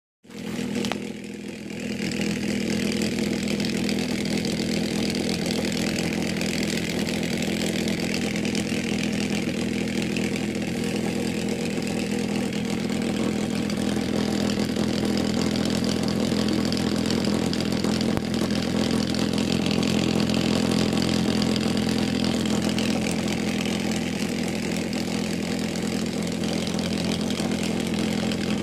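Homemade Bedini pulse motor built around a washing-machine pump rotor, running with a steady hum and a fainter high whine above it. The sound starts in the first second and settles to a steady level within about two seconds.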